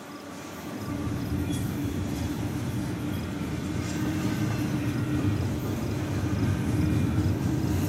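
Double-stack intermodal container well cars rolling past on the rails: a steady rumble of wheels with a steady droning tone over it, growing louder about a second in.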